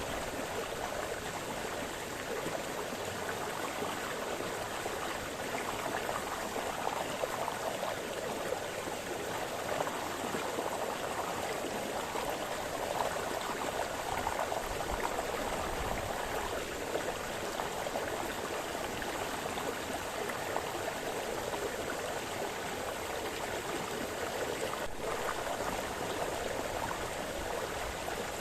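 Brook water splashing and burbling over stones, a steady rushing with small flickers in level.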